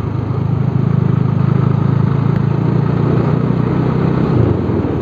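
Bajaj Dominar 400's single-cylinder engine running steadily while the motorcycle is ridden along, over a steady rushing noise. The engine note dips about four seconds in.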